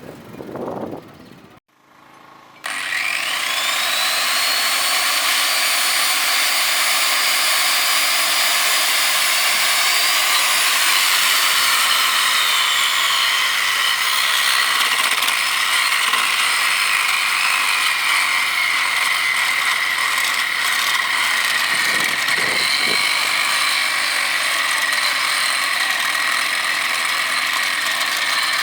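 A power tool starts up about two and a half seconds in and runs steadily on the steel rail, with a high whine that sags and recovers in pitch as it works.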